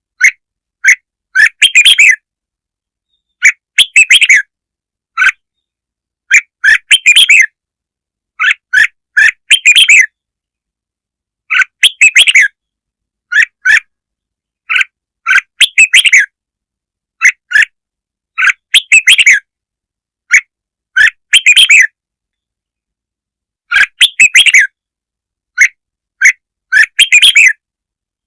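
Red-whiskered bulbul song: short, loud phrases of quick chirping notes, repeated every one to two seconds with dead-silent gaps between them. A lure recording meant to provoke bulbuls.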